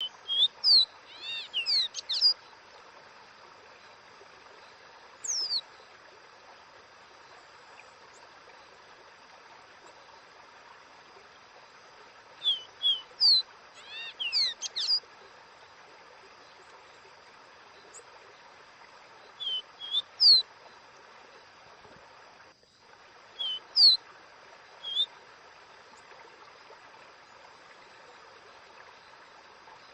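Caboclinho, a Sporophila seedeater, singing its 'Dó Ré Mi' song: short groups of clear whistled notes that glide quickly downward, given five times with pauses between, over a steady faint hiss.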